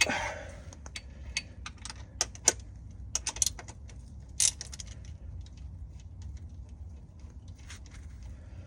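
Scattered sharp metallic clicks and clinks of hand tools against the connecting rod end cap and bolts of a 2017 Kia Optima's 2.4-litre engine, as the cap is worked off to inspect a knocking rod's bearing. A low steady hum runs underneath.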